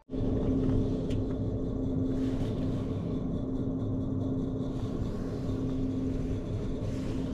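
A motor vehicle running: a steady rumble with one constant low hum that starts suddenly and holds even throughout.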